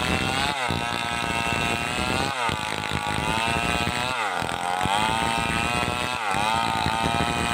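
Stihl 038 two-stroke chainsaw running at high revs while cutting coconut palm trunk, its pitch dipping and climbing back about every two seconds, four times.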